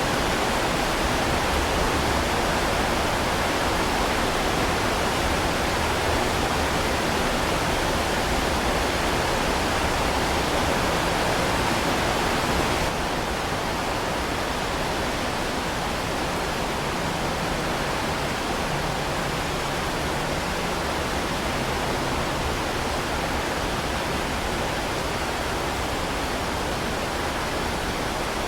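Heavy rain falling as a steady, dense hiss. About halfway through it steps slightly quieter and duller.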